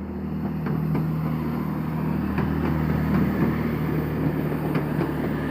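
Class 165 diesel multiple unit's underfloor diesel engines running with a steady low drone as the two-car unit moves off, with a few faint clicks.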